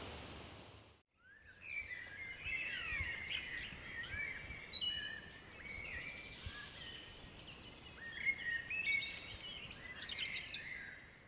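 Songbirds singing, with many overlapping quick chirps and short rising and falling whistled notes. They start after a brief gap about a second in, as a fading outdoor hiss ends.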